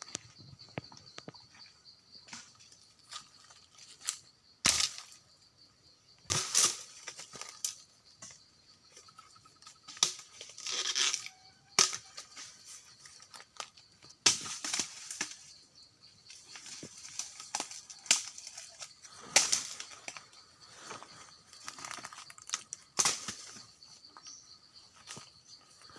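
Crunching and rustling of footsteps through dry forest leaf litter, in uneven bursts with a dozen or so louder crunches, over faint steady high tones.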